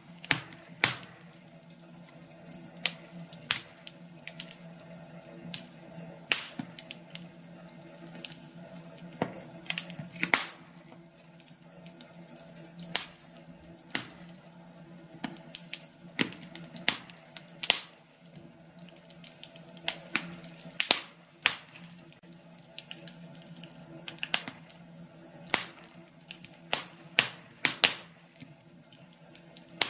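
Burning firewood crackling: irregular sharp pops and snaps, a few a second and uneven in strength, over a low steady background.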